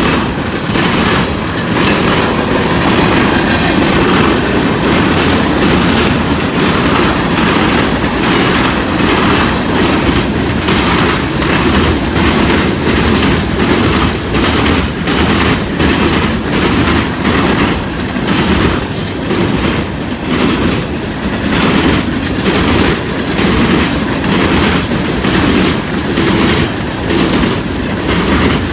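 CSX freight train rolling past, its wheels clacking rhythmically over rail joints, about one to two clacks a second over a steady rumble.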